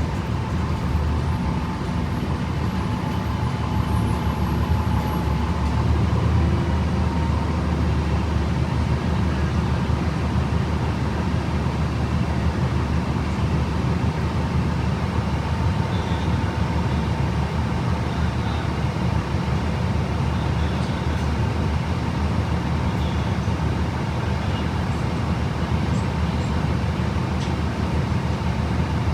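A 2011 Gillig BRT transit bus under way, heard from inside the cabin: the drivetrain with its Voith automatic transmission runs with a steady low rumble and road noise, and a thin steady whine sits above it.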